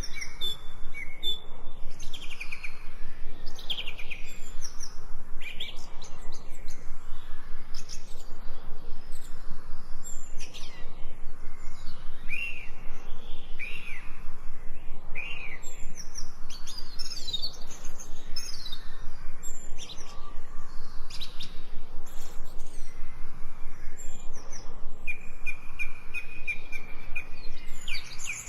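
Small birds chirping and calling, many quick high notes overlapping without a break.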